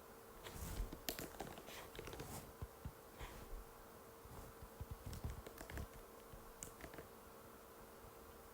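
Typing on an Apple MacBook butterfly keyboard: a run of light, irregular key clicks that starts about half a second in and stops around seven seconds. A faint steady hum sits underneath.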